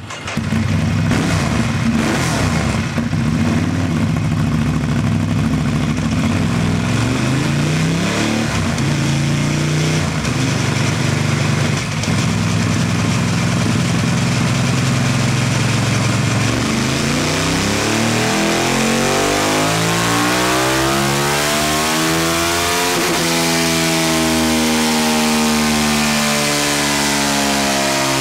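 Ducati 1098S's 1,099 cc L-twin engine running loudly, its pitch shifting up and down in steps, then climbing steadily through the last ten seconds or so as the revs rise.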